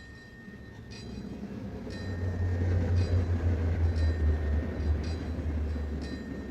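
A train passing by: a deep rumble swells to a peak about three seconds in, then fades away. Faint regular ticks about once a second sit underneath.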